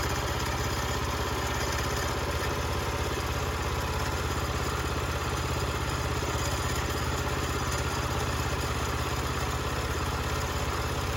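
Portable bandsaw sawmill's gas engine idling steadily, with no change in speed or load.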